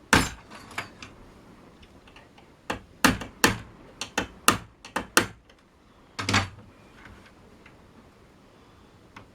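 A run of about a dozen sharp, irregularly spaced clicks and knocks, loudest near the start and around three to three and a half seconds in, ending with a heavier double knock a little after six seconds.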